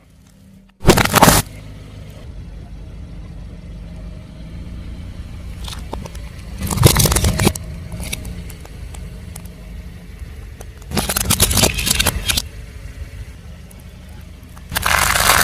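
Car tyre rolling over and crushing brittle objects: four loud bursts of crunching and crackling, about a second in, around seven seconds, around eleven seconds and near the end, over the steady low hum of the car's engine.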